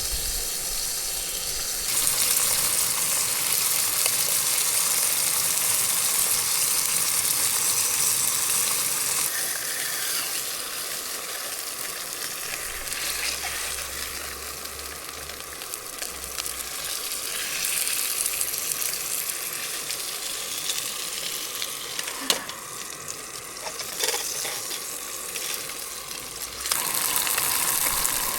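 Trout frying in a skillet: a steady sizzle that gets louder and quieter in abrupt steps, with a single sharp click about two-thirds of the way through.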